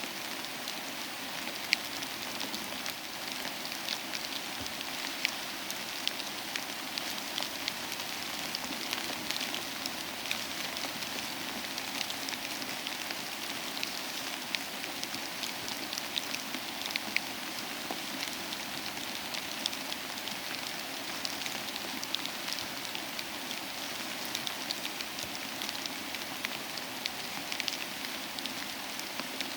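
Steady soft rain mixed with a crackling wood fire, sharp little pops and ticks scattered all through.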